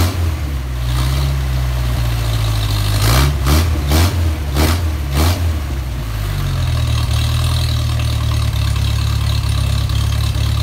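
Freshly rebuilt Mercedes-Benz 190SL four-cylinder engine on its first run, blipped up in short bursts of throttle about five times, then settling into a steady idle about six seconds in.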